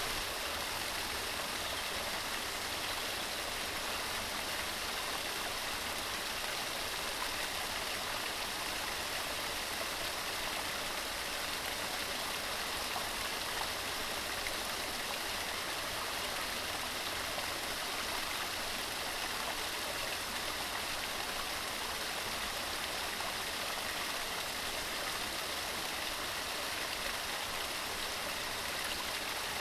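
Mountain stream running steadily over rocks, a constant rushing babble of water.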